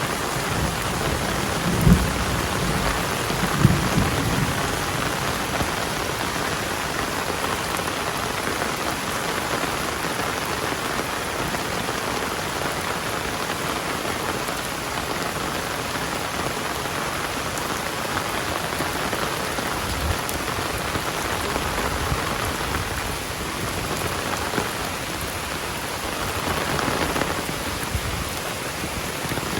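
Heavy rain falling steadily, a dense even hiss of rain on surfaces. Two short low thumps stand out about two and four seconds in, and the rain swells slightly near the end.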